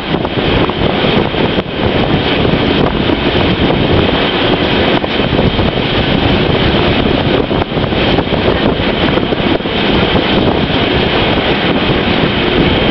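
Loud, steady running noise of a moving train, with wind rushing over the microphone.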